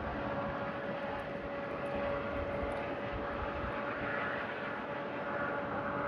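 Steady outdoor rumble with a faint continuous hum and no distinct events.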